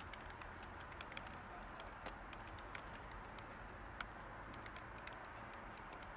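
Light computer-keyboard typing: scattered, irregular key clicks, a few a second, over a steady hiss of white noise.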